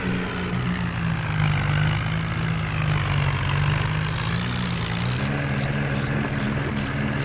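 Massey Ferguson tractor's diesel engine running under load, its note dipping and then rising again about five seconds in, with a burst of hiss just before.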